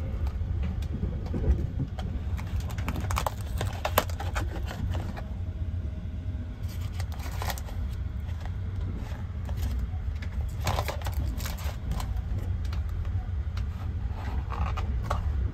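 Steady low rumble of the Sunrise Express sleeper train running, heard inside the compartment, with scattered clicks, scrapes and crinkles of a self-heating lunch box's plastic container being lifted out and handled, in clusters about three, seven, eleven and fifteen seconds in.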